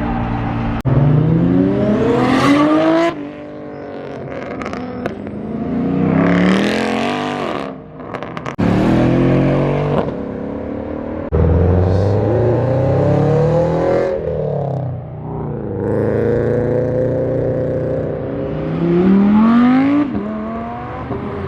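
Modified cars accelerating away one after another, their engines revving with rising pitch through the gears. Several revs break off abruptly as the next car starts.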